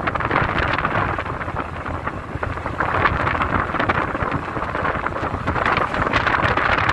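Car driving along a forest road: steady tyre and road noise with a low rumble and many small knocks, with wind noise.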